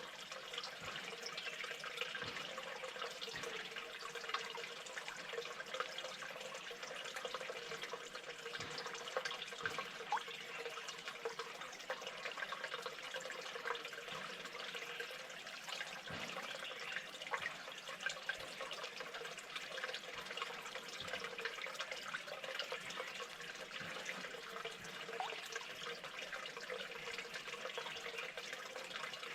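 Steady running water trickling and splashing, with many small scattered clicks and knocks through it.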